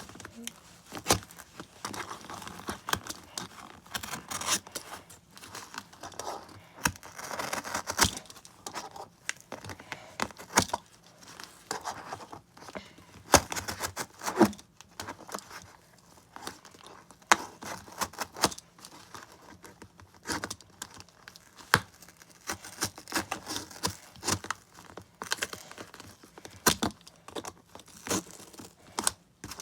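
Cardboard being worked by hand: irregular rustling and tearing noises with many scattered sharp clicks and knocks.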